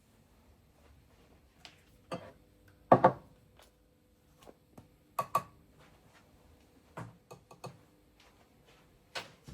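Scattered light clicks and knocks of objects being handled, about a dozen irregular ones, the loudest a pair about three seconds in, over a faint steady hum.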